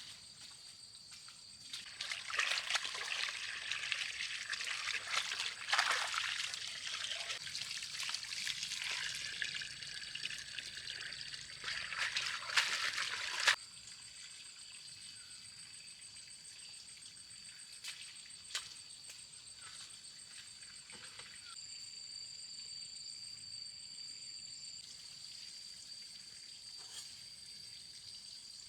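Water trickling and splashing for about eleven seconds, cutting off suddenly. Afterwards a quieter steady background with a faint high whine.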